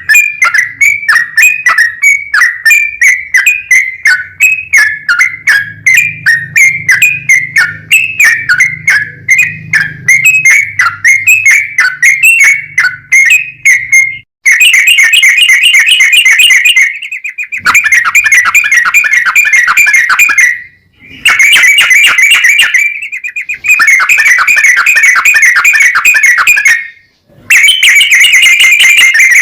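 Yellow-vented bulbul song used as a lure: quick repeated chirpy notes, a few a second, for about half the time. It then changes to long, loud, rapid trills that run a few seconds at a time with short breaks between them.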